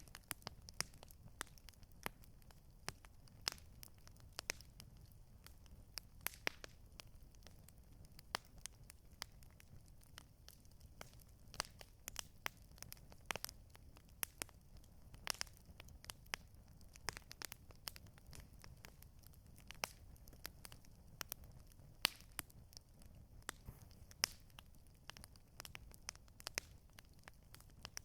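Campfire crackling: burning wood giving irregular sharp pops and snaps, several a second, over a faint low rumble.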